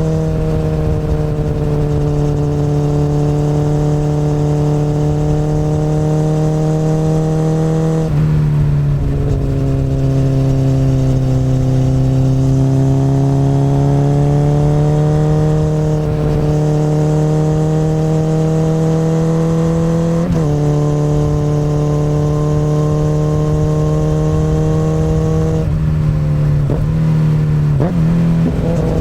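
Honda CBR1000RR's inline-four engine through an Akrapovic exhaust, running under steady throttle. The pitch drops suddenly about eight seconds in, then rises slowly. It jumps back up sharply about twenty seconds in and wavers briefly with quick throttle changes near the end.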